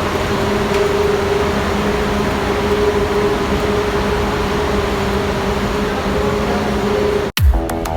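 Steady vehicle engine drone with a constant low hum. It cuts off abruptly about seven seconds in, and music starts.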